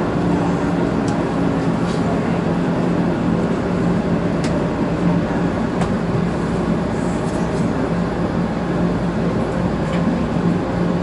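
Shinkansen train running, heard inside the car: a steady rumble with a constant low hum and a few faint clicks.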